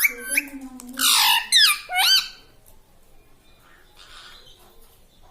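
Indian ringneck parrot giving about four loud, harsh squawks in the first two seconds or so, one of them a rasping screech.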